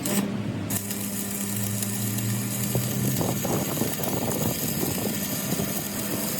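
A machine hum, with a loud steady hiss that starts under a second in.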